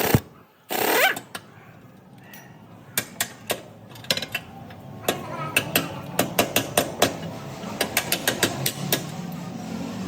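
Irregular series of sharp mechanical knocks and clicks, some in quick clusters, after a short rising sweep about a second in.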